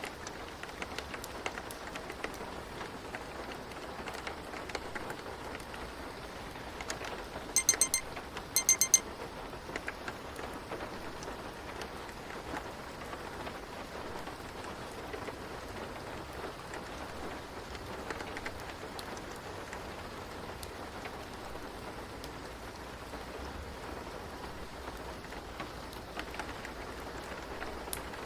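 Steady rain with, about eight seconds in, a digital timer alarm beeping in two short rapid bursts, the loudest sound here; it is typical of a Pomodoro timer signalling the end of a 15-minute focus session.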